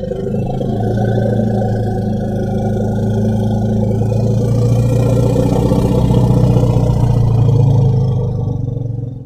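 Platybelodon creature sound effect made from elephant calls: one long, low, steady-pitched call lasting about nine seconds that stops suddenly near the end.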